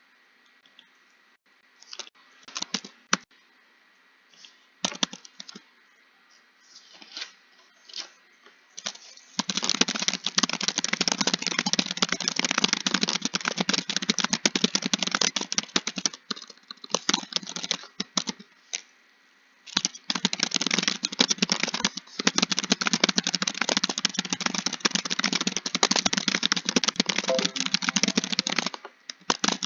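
Typing on a computer keyboard. A few scattered keystrokes come first, then two long bursts of fast continuous typing with a short pause between them.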